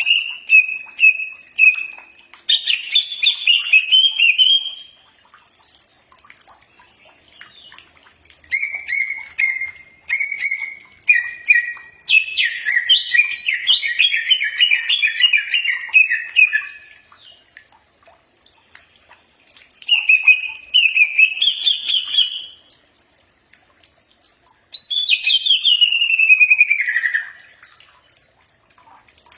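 Cucak ijo (green leafbird) singing: five loud phrases of rapid whistled and chattering notes with short pauses between them, the longest about eight seconds, and the last sliding down in pitch.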